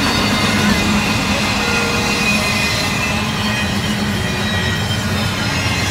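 Freight train rolling by: a steady, loud rumble of cars on the rails with faint wheel squeal.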